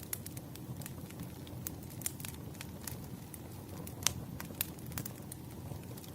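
Wood fire crackling: a steady low rumble of burning logs with irregular sharp pops and snaps, one louder pop about four seconds in.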